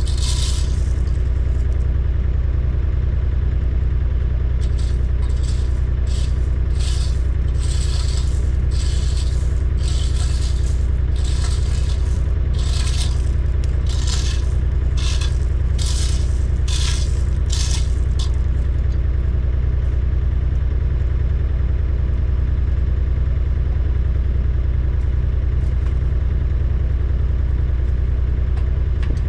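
Diesel engine of a compact construction machine such as a skid steer or mini excavator running steadily, with a series of short scraping, rattling noises about once a second for the first two-thirds that then stop.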